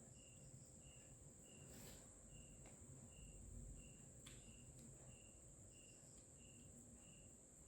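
Near silence with a faint insect chirping: short high chirps repeating evenly, nearly two a second, over a steady high-pitched hiss.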